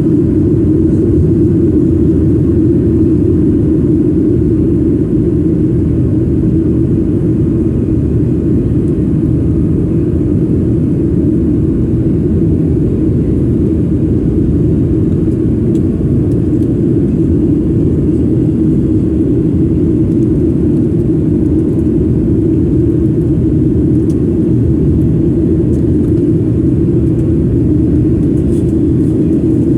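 Jet airliner cabin noise: a steady, loud low rumble of engines and airflow heard from inside the passenger cabin.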